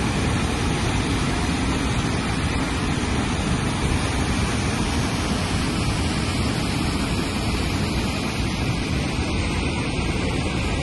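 Niagara Falls' water plunging and rushing in a steady, unbroken noise, heaviest in the low end.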